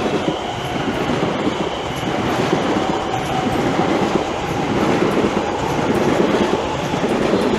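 Class 345 Aventra electric multiple unit passing through the station: continuous wheel-on-rail rushing noise with a steady whine, growing a little louder towards the end.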